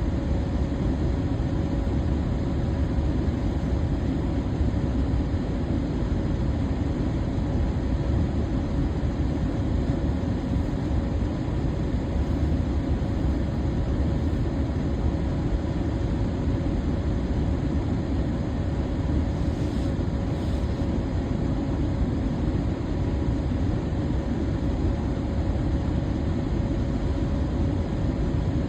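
Electric fan running steadily: an even, low rush of air with a faint steady hum on top.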